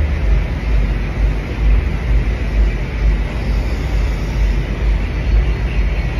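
Wind buffeting the microphone: a steady, gusting rumble with a hiss over it.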